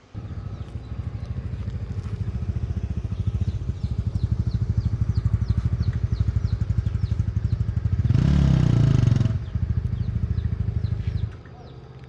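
Small motorbike engine running with a fast, even low firing pulse, a louder rushing noise for about a second near 8 s, then the engine is switched off about 11 s in.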